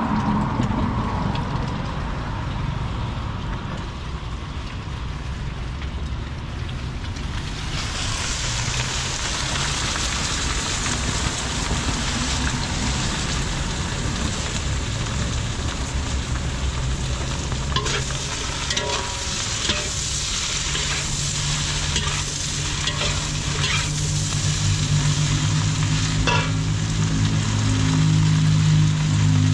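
Food sizzling as it fries, a steady hiss that gets louder about eight seconds in, with a few sharp clinks around the middle. A low engine hum comes up over the last few seconds.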